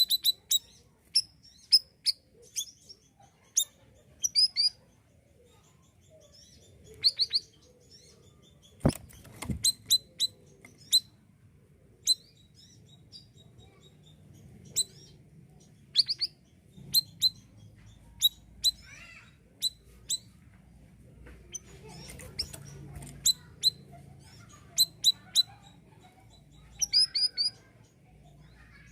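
Male siri-siri bird calling: short, sharp, high-pitched chirps given in quick clusters, with pauses of a second or more between the clusters.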